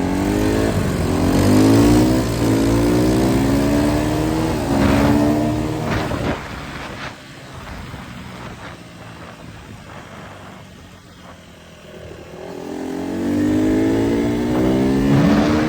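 Honda CRF150R dirt bike's four-stroke single-cylinder engine accelerating through the gears, its pitch climbing and dropping back with each shift. It then eases off to a quieter run for several seconds before revving up again near the end.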